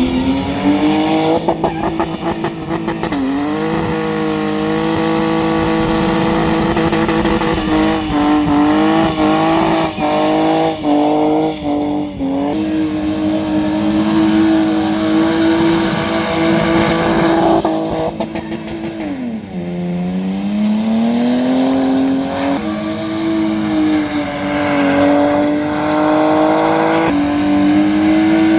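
Muscle car V8 engine held at high revs through a burnout, over tyre noise. The revs dip and climb back twice, once near the start and once about two-thirds of the way through, with a run of short quick stutters in between.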